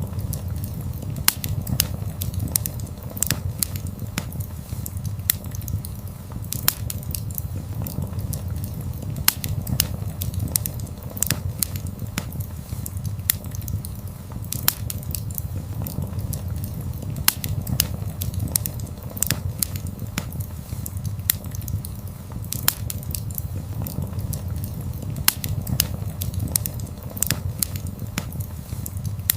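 Wood fire burning: frequent irregular sharp crackles and pops over a steady low rumble.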